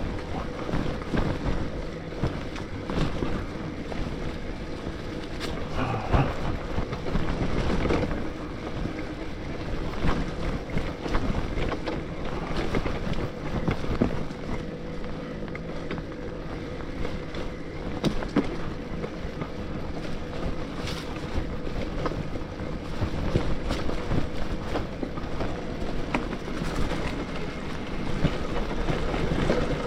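Bafang BBSHD mid-drive e-bike motor running at 72 V under way on a trail, a steady whine under rushing wind on the microphone, with scattered knocks and rattles from the bike going over bumps.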